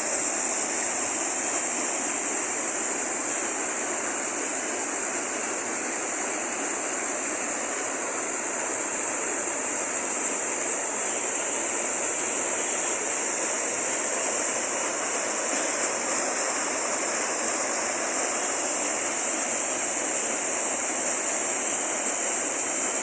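Waterfall: water falling and rushing in a steady, unbroken stream of noise, topped by an even high hiss.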